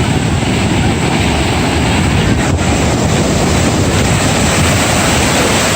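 Steady rushing noise of surf and wind buffeting the microphone, heavy in the low end.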